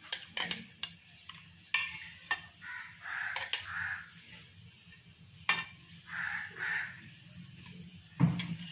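A spatula scraping and knocking against a pan as cooked basmati rice is spread over fried vegetables, chicken and egg, with a scattering of sharp clicks and a light sizzle.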